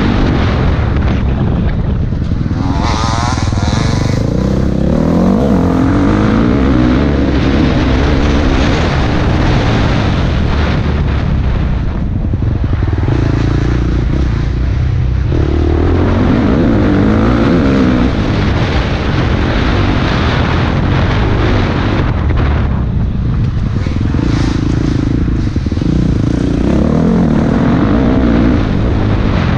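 Dirt bike engine running hard on a trail ride, its pitch rising and falling several times as the throttle is opened and closed.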